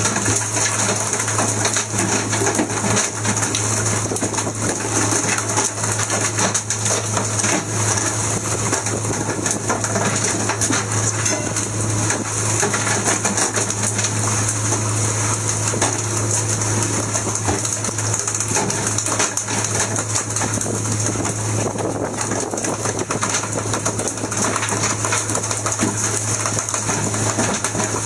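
Fishing boat's engine running steadily: a constant low hum under a dense, fast mechanical rattle and hiss.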